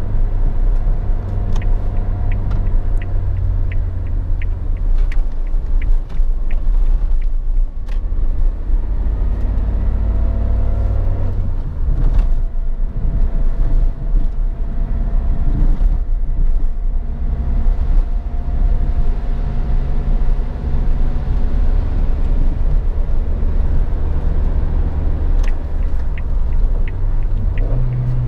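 Suzuki Jimny's 1.5-litre four-cylinder petrol engine running while the car is driven, with a heavy low rumble and a few light ticks; the engine note changes about twelve seconds in.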